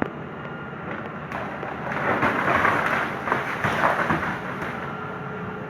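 A rustling, crackling noise swells about two seconds in and dies away about two and a half seconds later, over a steady machine hum with a faint whine.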